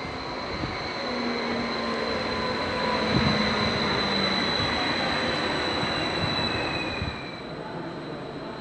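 A Srbija Voz Stadler FLIRT electric multiple unit passes close by. The rumble of its wheels on the rails swells to a peak and drops away about seven seconds in. A steady high whine runs over it, and a fainter tone slides slowly down as the train goes by.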